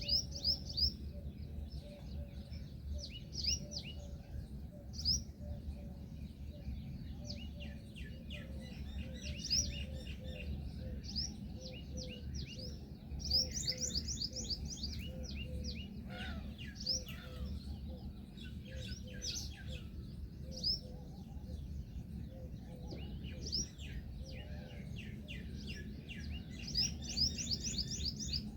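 Birds chirping in quick, high runs of notes throughout, with a softer lower note repeated about twice a second for most of the time and a steady low hum beneath.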